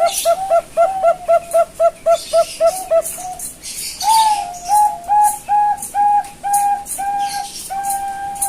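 Young Bangkok-strain zebra dove (perkutut) singing: a fast run of about a dozen short staccato coos for some three seconds. After a brief pause comes a slower series of longer, slightly higher coos that ends on a long held note.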